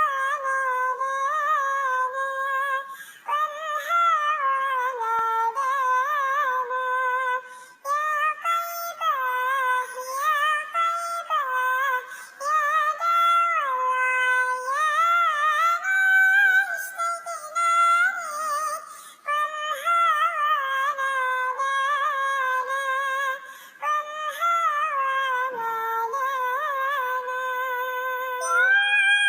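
High-pitched, synthetic-sounding solo singing voice chanting a sholawat melody, with wavering ornamented notes in long phrases broken by short breaths.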